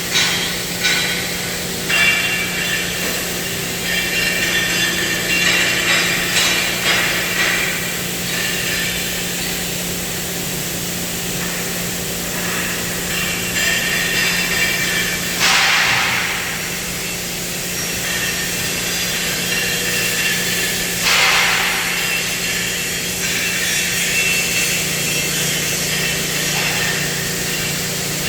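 CNC cutting machine cutting steel with its torch: a steady hum under a crackling hiss, with two brief louder bursts of hiss past the middle.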